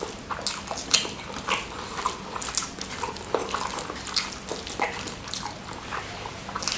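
Close-miked wet chewing and lip smacking while eating salted-squid sambal with rice: many small, irregular smacks and clicks.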